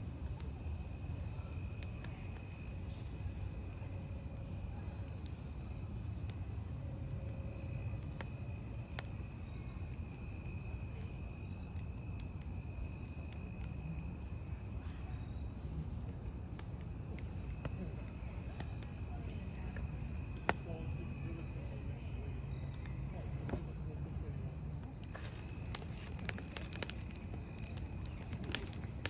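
Crickets chirping in a steady high-pitched trill over a crackling wood campfire. Scattered sharp pops come from the burning logs, the sharpest about twenty seconds in, over a low steady rumble.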